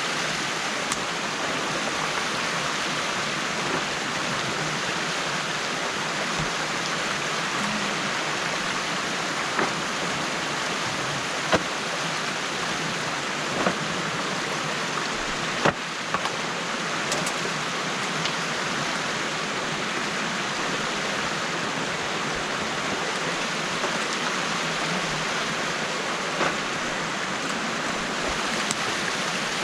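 Stream water pouring steadily through the gap in a beaver dam being opened up, with a few sharp splashes or knocks now and then.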